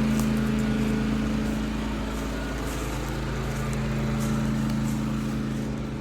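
Portable generator engine running steadily with a constant low hum.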